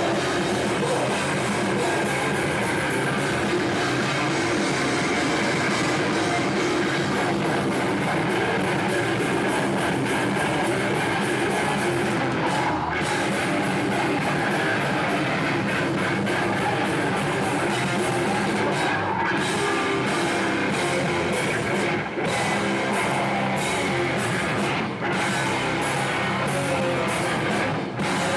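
Metalcore band playing live: heavily distorted electric guitars and a drum kit, loud and dense, with a few very brief stops in the second half.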